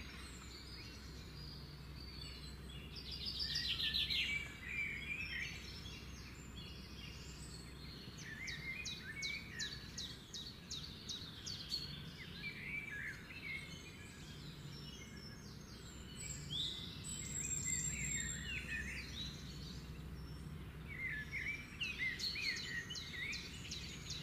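Small birds chirping, with runs of quick repeated notes now and then, over a faint steady low hum.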